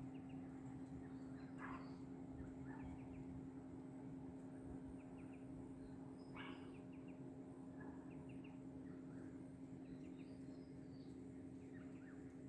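Faint, scattered bird chirps, several short calls a few seconds apart, over a steady low hum.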